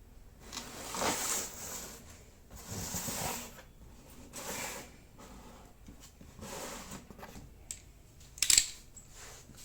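Several separate bursts of rustling or scraping noise, each about a second long, then a sharp, loud clack near the end.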